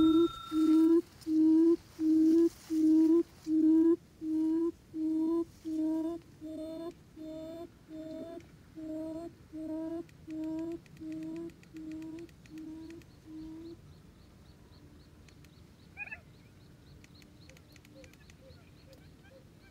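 Forest quail (chim cút rừng) calling: a long series of low, evenly spaced hooting notes, about one and a half a second, fading steadily until they stop about fourteen seconds in. A brief higher chirp follows near the end.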